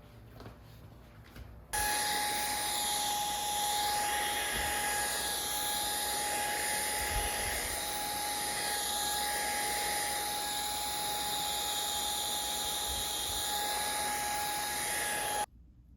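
An electric fan-motor appliance is switched on and runs with a steady rush of air and a high, steady whine, then cuts off abruptly near the end.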